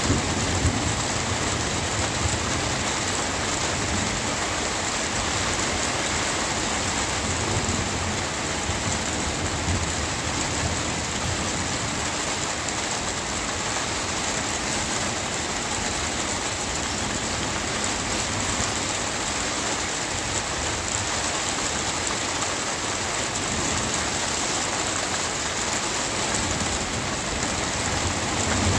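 Steady rain falling, an even hiss with no break. A low rumble of thunder dies away at the start, and another begins to build near the end.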